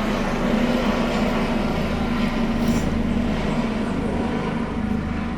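Police helicopter flying low overhead, its rotor and engine making a steady drone that begins to fade near the end.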